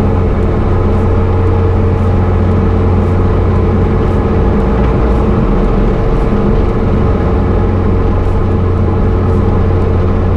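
Diamond DA40 single-engine piston plane's engine and propeller at full takeoff power, a loud steady drone that holds one pitch throughout.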